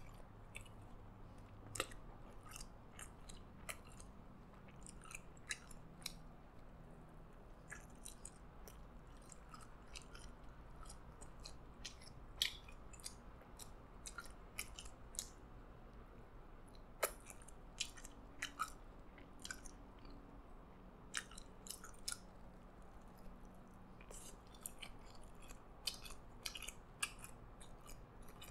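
Close-miked chewing of a McDonald's Prosperity Burger: irregular soft clicks of the mouth working the food, a few of them louder.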